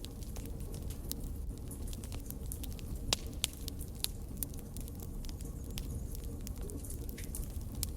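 Wood fire in a fireplace crackling, with irregular sharp pops and snaps over a steady low rumble of the flames; one louder pop about three seconds in.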